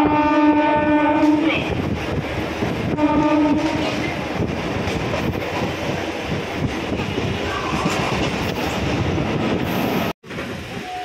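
MEMU electric train sounding its horn twice, a long blast and then a short one, followed by the steady rumble and rail clatter of the train running.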